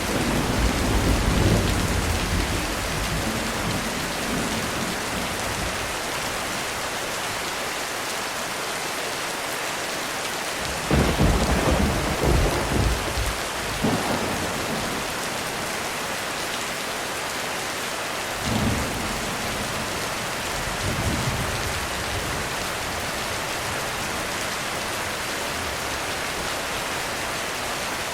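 Heavy rain falling steadily through a thunderstorm, with rolls of thunder. A low rumble dies away in the first few seconds, a loud clap breaks about eleven seconds in and rumbles on for a few seconds, and two fainter rolls follow.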